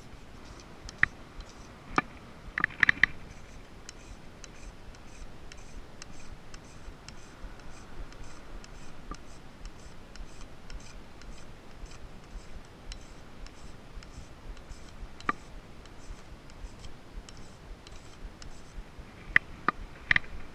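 Campfire crackling: a run of faint small ticks with a few sharp snaps scattered through it, the loudest in a cluster near the start and another near the end.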